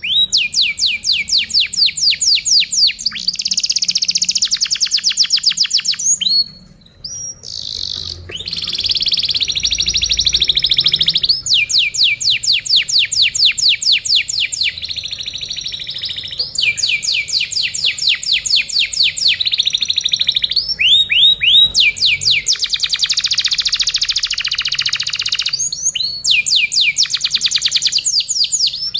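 Domestic canary singing: long runs of fast repeated trill notes, high-pitched, with a short pause about six seconds in.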